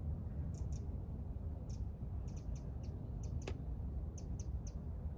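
A small bird chirping over and over in short high notes, often two at a time, over a low steady rumble, with one sharp click about three and a half seconds in.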